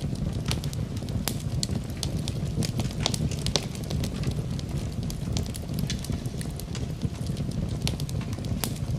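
Wood fire burning in a fireplace, a steady low rumble of flames with frequent sharp crackles and pops scattered irregularly throughout.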